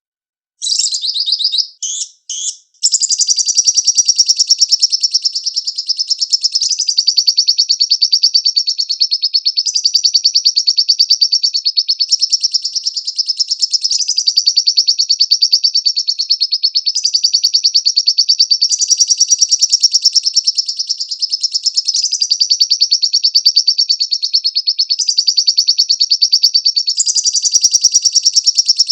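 Lovebird singing: a few short broken bursts, then a long unbroken rapid chattering trill (the 'ngekek' song) that shifts slightly in pitch every few seconds.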